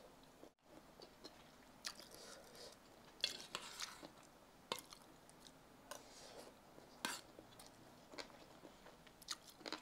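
Faint close-up chewing of fried rice, with short clicks of a metal spoon on the plate scattered about once a second.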